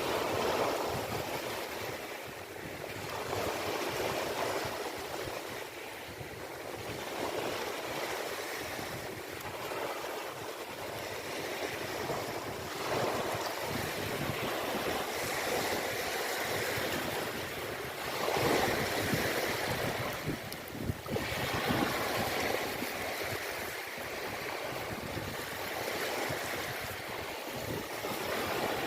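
Ocean waves washing in, a continuous rushing surge that swells and eases every few seconds, with some wind.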